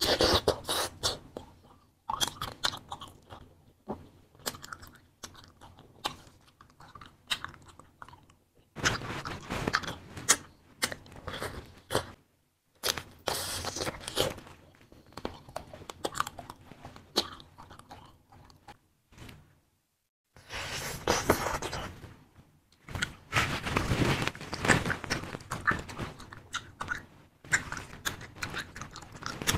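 Biting and chewing of fruit-filled wax candy: a sharp bite right at the start, then bouts of chewing full of small crackles and clicks, broken by short pauses.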